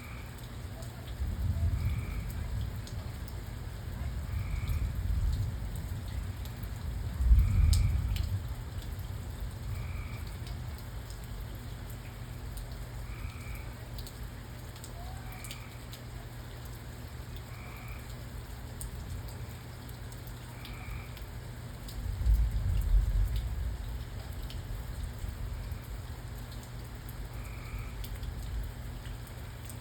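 Steady rain falling at night, with low thunder rumbles several times, the loudest about seven seconds in and another near the end. A frog calls once about every two seconds.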